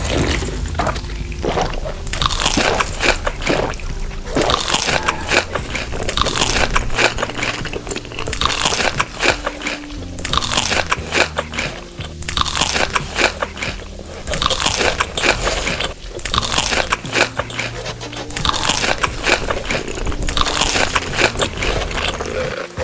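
Crunchy food being bitten and chewed close to the microphone, with a loud crunch about every two seconds, over soft background music.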